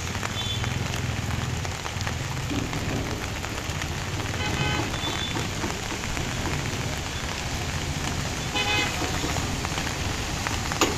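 Heavy rain falling steadily on a flooded street, with short vehicle horn toots near the middle and again toward the end.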